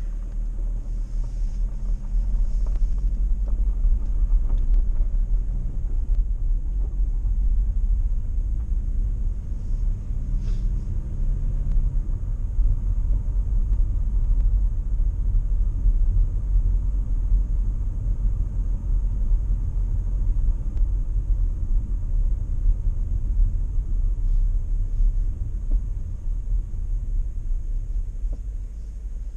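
Car engine and road rumble heard from inside the cabin as the car creeps forward slowly. The low, steady rumble swells over the first few seconds and eases near the end.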